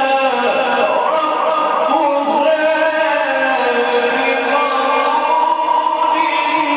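A man's voice chanting Quran recitation in the melodic mujawwad style, holding long ornamented notes that slide slowly up and down in pitch.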